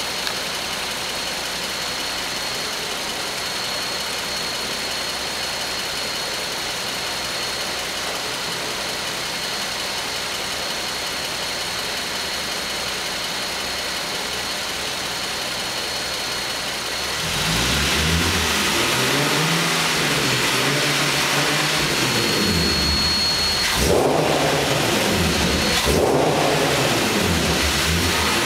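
Nissan 370Z's 3.7-litre V6, fitted with a Takeda short ram intake, idling with a thin high-pitched whine. About two-thirds of the way in it is revved up and down several times, and the whine stops during the revs.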